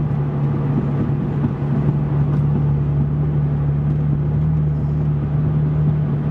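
Porsche 996 Turbo's twin-turbo flat-six with a Fabspeed exhaust, heard from inside the cabin while cruising. It holds a steady low exhaust tone under road and wind noise over the windshield, and the pitch rises slightly about halfway through.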